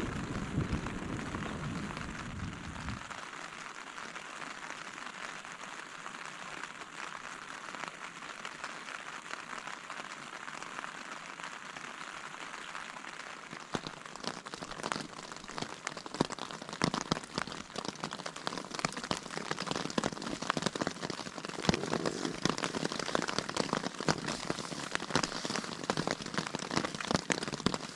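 Steady rain in a thunderstorm, with drops striking as sharp taps that grow thicker from about halfway through. A low rumble of thunder stops about three seconds in.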